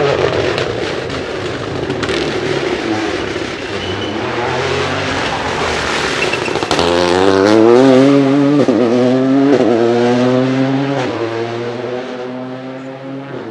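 Toyota GR Yaris Rally2's turbocharged three-cylinder rally engine accelerating hard through the gears, its note climbing and dropping at each of several quick upshifts, then fading as the car goes away. Before that, a rougher rumble with sharp crackles.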